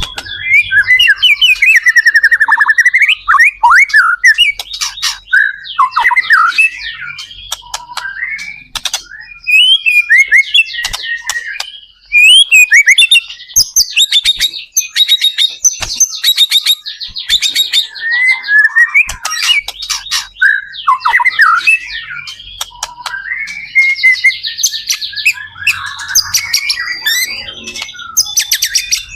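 White-rumped shama (murai batu) singing a loud, continuous, varied song: whistled phrases that slide up and down, broken by fast trills and sharp clicking notes, with hardly a pause.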